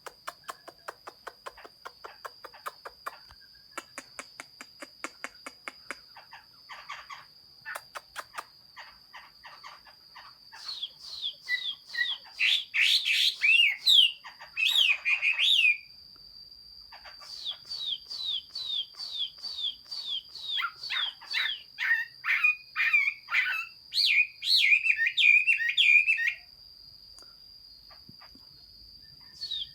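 Chinese hwamei singing: first a run of quick, soft ticking notes, then from about ten seconds in loud, repeated, falling whistled phrases with one short pause, before the song drops off near the end.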